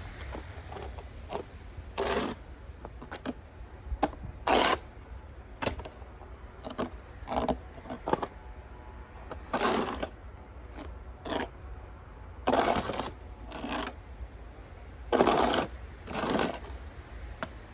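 Snow shovel scraping and pushing through snow in short, irregular strokes about every one to two seconds, with a low wind rumble.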